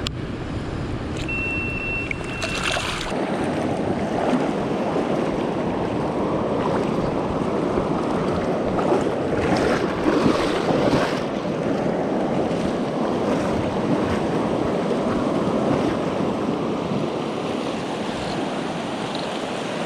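Steady, even rush of river water flowing past, with wind rumbling on the microphone in the first three seconds.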